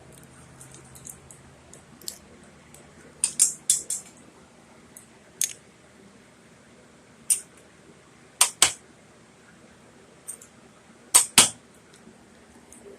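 A series of sharp metallic clicks and clinks, several coming in quick pairs about a fifth of a second apart, with short gaps between them.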